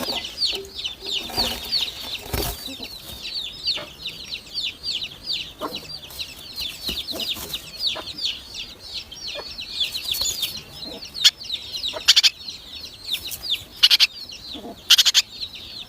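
Great tit nestlings begging in the nest: a dense, continuous stream of short high-pitched chirps, many a second. A few brief scratchy bursts break in over the second half.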